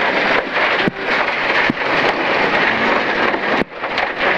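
Inside a BMW E36 rally car at stage speed: a loud, steady rush of tyre, road and wind noise with a few sharp knocks, and a brief dip in level near the end.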